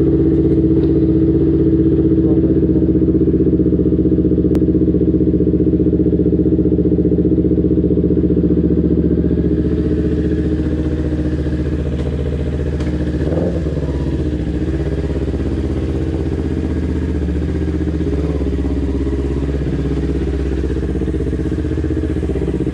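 Kawasaki Ninja 250 FI's parallel-twin engine idling steadily, then pulling away and running at low revs, about halfway through.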